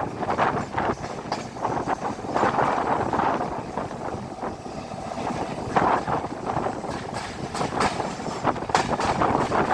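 A moving train heard from on board: a steady rumble with irregular clattering knocks of the wheels and carriage running over the track.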